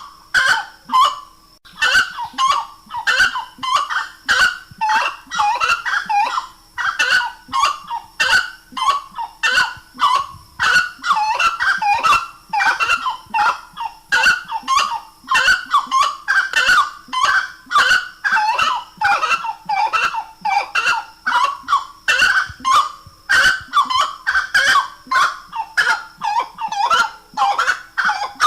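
Grey-cowled wood rail (saracura-três-potes) singing: loud, rapidly repeated honking notes, several a second, that run on almost without a break.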